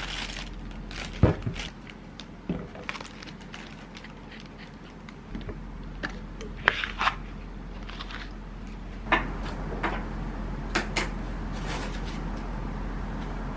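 Scattered clicks and knocks of objects being handled, over a steady low hum.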